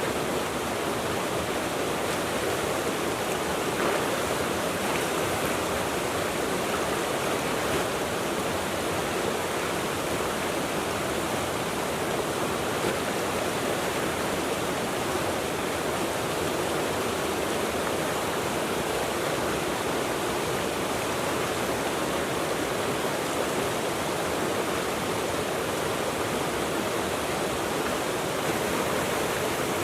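Mountain river rushing over rocks, a steady full rush of flowing water.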